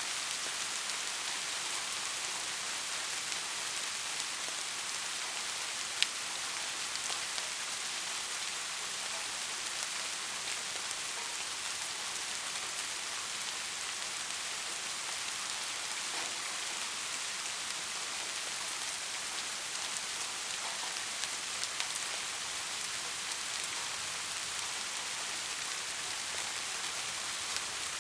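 Steady rain falling, an even hiss of many drops on a surface with scattered individual drop ticks and one sharper drip about six seconds in.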